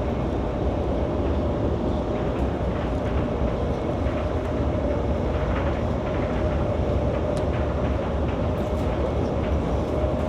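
Steady running noise inside a high-speed train carriage at speed: a low rumble with a steady hum over it, and a few faint clicks.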